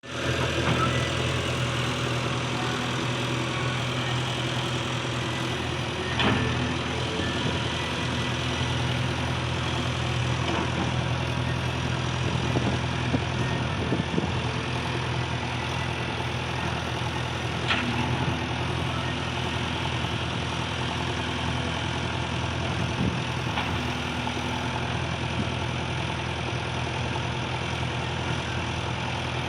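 Diesel engine of heavy earthmoving machinery running steadily at a low, even speed, with a few brief sharp knocks.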